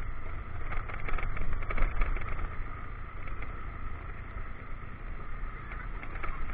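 Motorcycle riding on a rough mountain road, recorded on a bike-mounted action camera: a steady low rumble of engine and wind, with a few knocks and rattles from bumps in the first couple of seconds.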